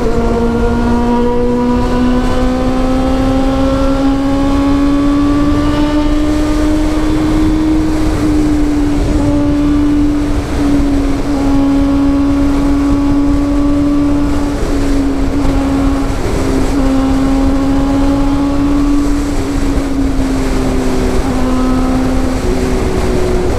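Honda CB400 inline-four running through a Two Brothers aftermarket exhaust while being ridden. The engine note climbs slowly over the first several seconds, then holds fairly steady with a few short dips, over a steady rushing noise.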